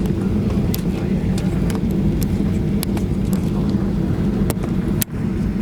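Boeing 737-800 cabin noise on the ground after landing: a steady low rumble from the CFM56 engines and the rolling undercarriage, with light clicks and rattles from the cabin. The sound drops out briefly about five seconds in.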